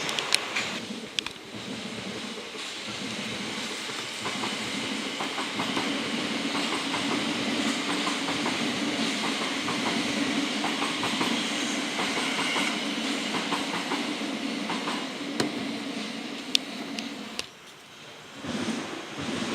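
Train crossing a rail bridge overhead: a steady rumble with scattered wheel clicks. It drops away briefly near the end, then picks up again.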